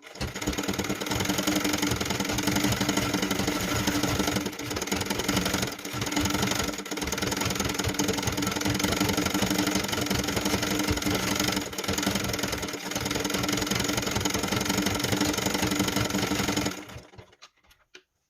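Sewing machine running fast, stitching karakafa embroidery, with a few brief slowdowns. It stops near the end.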